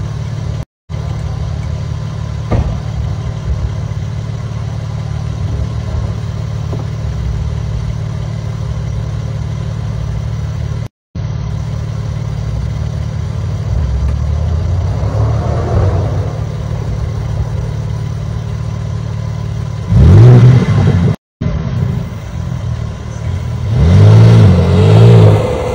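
BMW M4 convertible's twin-turbo straight-six idling steadily, with short rises in engine note a few seconds apart near the end, the loudest about 20 seconds in and about 24 seconds in.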